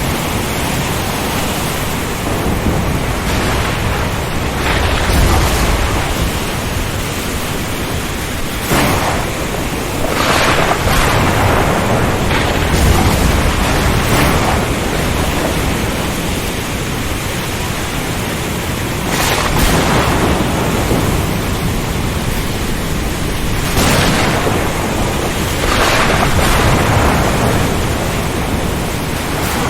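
Storm at sea: strong wind and surf make a steady, dense noise over a low rumble, with brief swells of noise every few seconds.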